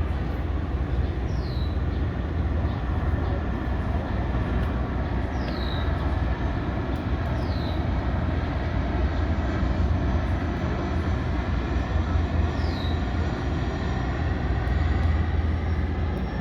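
Passenger ferry's engines running with a steady low rumble as the boat comes in to dock. A few short, high, falling chirps sound over it now and then.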